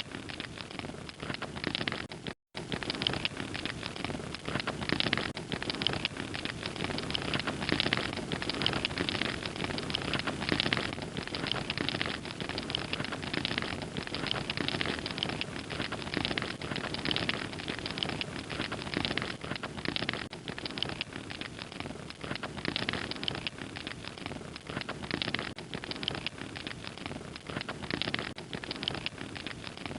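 Wood fire crackling steadily, a dense run of small pops and snaps over a soft hiss. The sound cuts out completely for a split second about two and a half seconds in.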